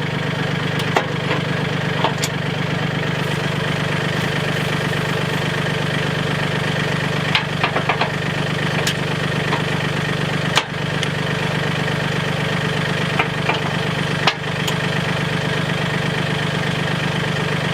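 Mahindra 1626 compact tractor's diesel engine idling steadily, with scattered sharp clicks and knocks on top, several of them clustered in the middle.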